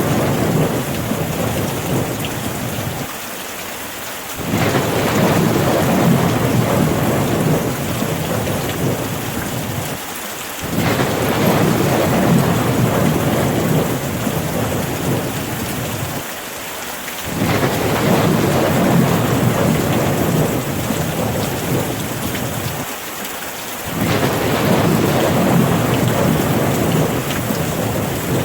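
Steady rain, with a low rumble that swells up and drops away about every six to seven seconds, like distant thunder.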